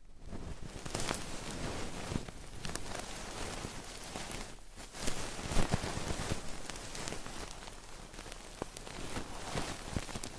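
Close-miked ASMR trigger sounds: dense crackling and scratching right at the microphone with many small clicks, a brief pause about four and a half seconds in, then a few louder clicks.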